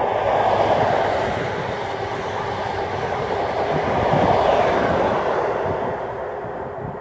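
High Speed Train (InterCity 125) with Class 43 diesel power cars passing at speed: a loud rush of engine and wheel-on-rail noise swells as the leading power car goes by, eases over the coaches, swells again about four seconds in, then fades.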